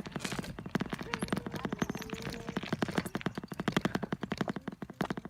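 Bicycle ticking in a fast, even run of sharp clicks, about ten a second, that slows and thins near the end.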